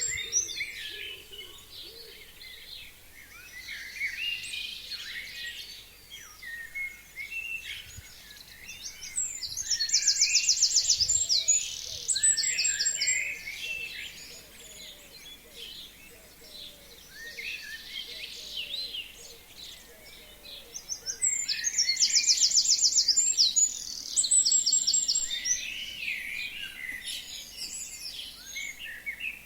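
Several forest songbirds singing together in spring, with many short chirps and calls overlapping. One nearby bird twice sings a loud, fast trilled phrase, about ten and twenty-two seconds in.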